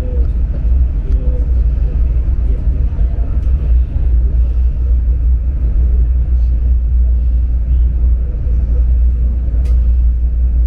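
Steady low rumble of a moving high-speed passenger train heard from inside the carriage, with a few faint clicks.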